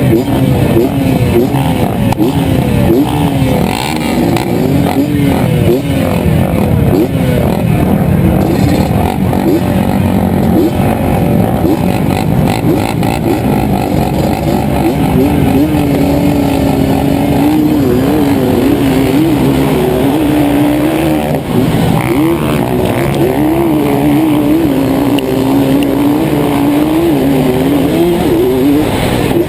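Motorcycle engine running hard, its pitch rising and falling over and over as it revs up and drops back.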